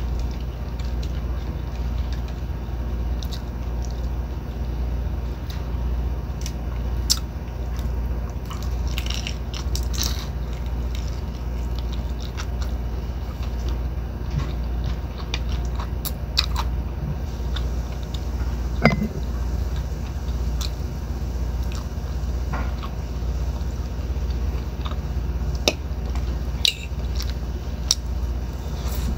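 Close-up eating sounds: biting into and chewing crunchy fried tortilla tacos, with scattered short crunches and clicks, over a steady low hum.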